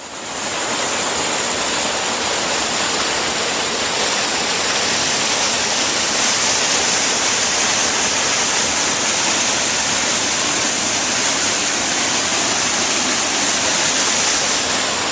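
Rain-swollen stream rushing steadily over a normally dry stretch of its bed: the stream is running high after a day of rain.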